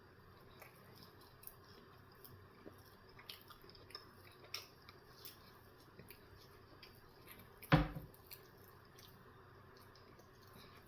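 Close-up chewing and wet mouth sounds of a person eating a breakfast sandwich: faint, scattered small clicks. About eight seconds in there is one louder, bass-heavy thump.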